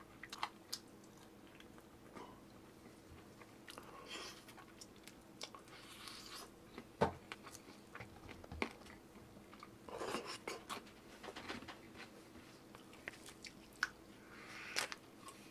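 A person eating close to the microphone: chewing, with scattered crunches and wet smacks coming in irregular clusters. A faint steady hum sits underneath.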